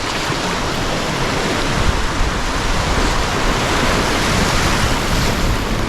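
River rapids rushing around a canoe: a loud, steady roar of whitewater.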